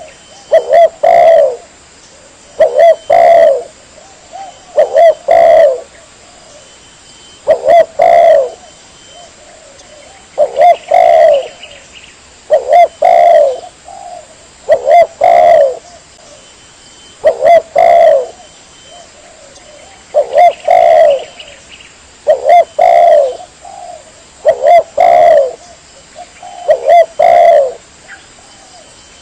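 Spotted dove (tekukur) cooing as a lure call: loud phrases of two or three low coos, repeated about every two seconds.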